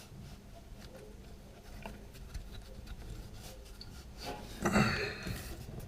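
Faint clicks and rubbing of hand tools working the exhaust manifold nuts on a Jaguar 3.8 straight-six, with a louder burst of scraping noise near the end.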